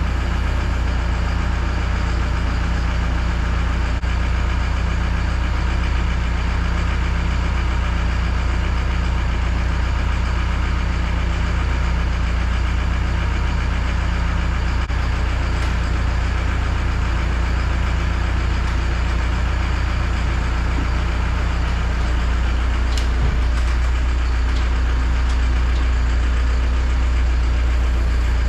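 Land Cruiser boom truck's engine idling steadily, a deep even hum that holds at the same pitch and level throughout, with a faint click a few seconds before the end.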